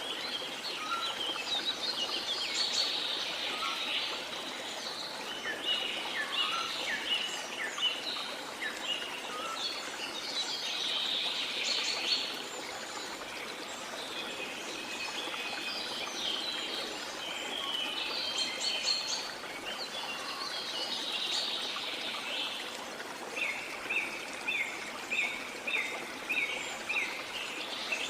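Several birds singing and calling over a steady rush of flowing water. Near the end one bird repeats a short note about twice a second.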